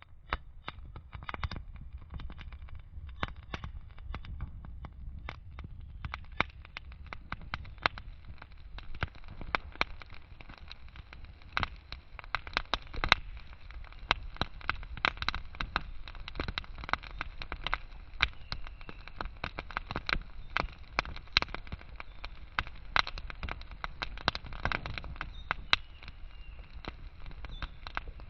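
Wood fire crackling and popping: irregular sharp snaps over a low steady rumble.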